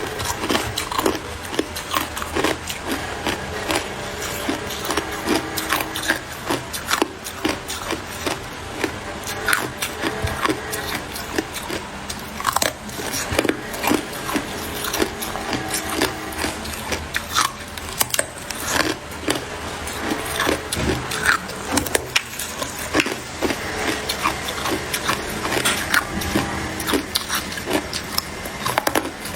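A person biting and crunching ice close to the microphone: a dense, irregular run of sharp cracks and crunches as the ice breaks between the teeth.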